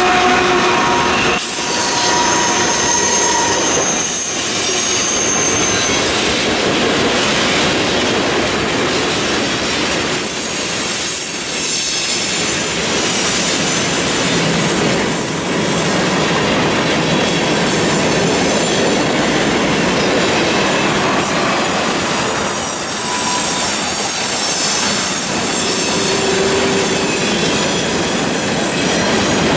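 CN freight train's tank cars and covered hoppers rolling past at close range, a steady loud rumble and rattle of wheels on rail. A few short wheel squeals ring out: about two seconds in and again near the end.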